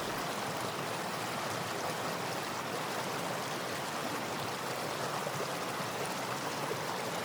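Steady rushing water noise, even and unbroken, cutting in suddenly.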